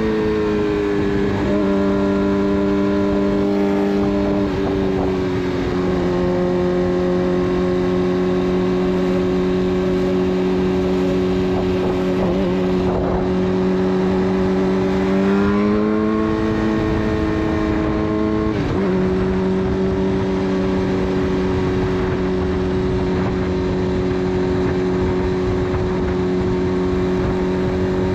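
Suzuki GSX-R600 inline-four running through a full de-catted Yoshimura exhaust, cruising at nearly steady throttle over wind rush. The engine pitch dips slightly about four seconds in, rises briefly around the middle, and settles back a few seconds later.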